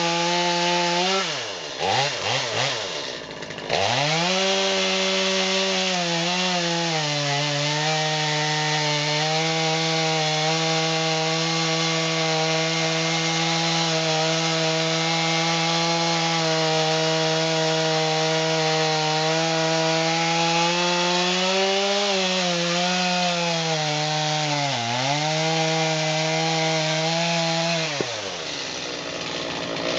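Stihl MS250 two-stroke chainsaw cutting through black locust, the engine held under steady load in the cut. Its pitch swings sharply a few times near the start, dips briefly twice later on, then drops off near the end as the throttle is let go.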